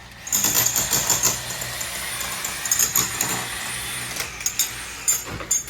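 Power tool chipping away brick and mortar during demolition, a steady running hum with irregular sharp knocks of masonry breaking.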